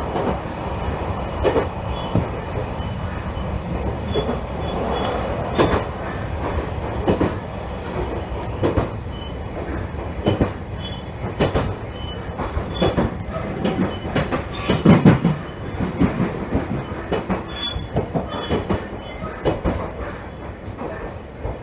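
Train running on the rails: a low rumble with irregular clacks and knocks of the wheels over rail joints, with a faint thin squeal. The loudest knock comes about fifteen seconds in.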